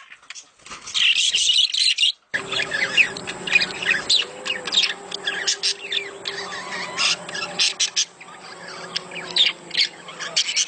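A flock of budgerigars chattering and warbling, with dense rapid chirps. The recording changes abruptly about two seconds in, after which a low steady hum runs under the birds.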